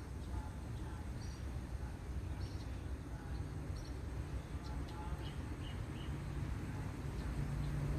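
Short, high bird chirps heard several times over a steady low outdoor rumble.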